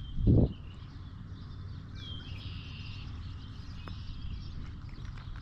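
A bird calling over a steady low rumble: a falling whistled note that runs into a buzzy chatter for about a second, about two seconds in. A short low thump just after the start is the loudest sound.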